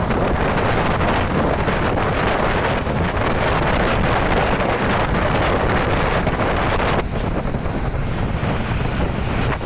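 Heavy wind rushing on the microphone over the dull rumble of road traffic, recorded on the move along a highway. About seven seconds in, the high hiss drops away abruptly.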